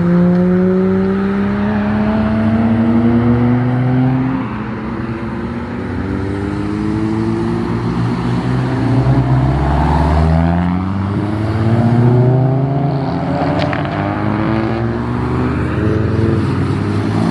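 Car engines accelerating away, each rising in pitch for a few seconds and then dropping back before climbing again, as through upshifts.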